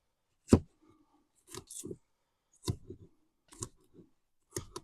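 Knife cutting through a green pepper on a cutting board: crisp crunching cuts and knocks on the board, about seven strokes at an uneven pace.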